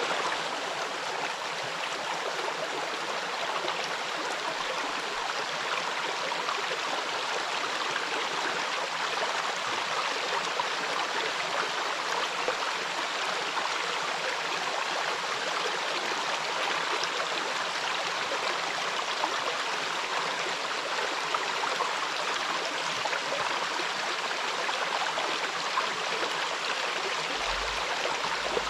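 Small waterfall and the shallow stream running in front of it: a steady, even rush of water with little deep rumble.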